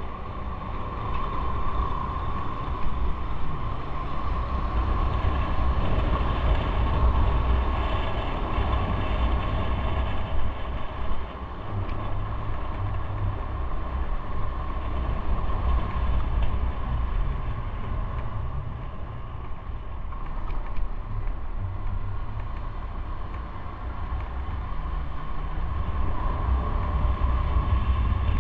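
Motorcycle engine running steadily while riding, with road and wind noise throughout.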